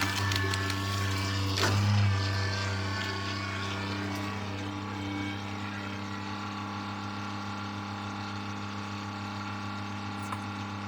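Kioti CK2610 compact tractor's diesel engine running steadily, with a brief clatter about two seconds in.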